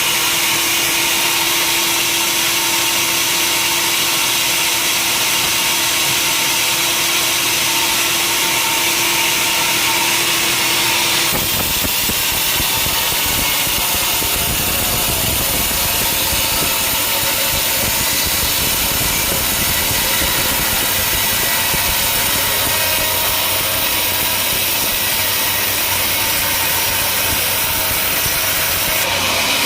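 Sawmill machinery running steadily, with a steady hum and a held tone. About eleven seconds in, the sound changes abruptly to a deeper, rumbling engine-like running.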